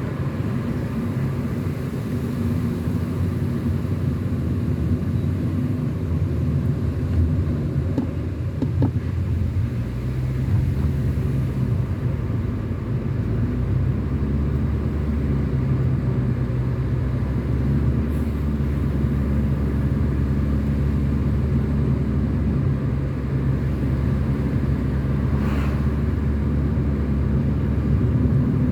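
Car engine and road noise while driving, a steady low drone whose engine pitch shifts a little partway through as the speed changes.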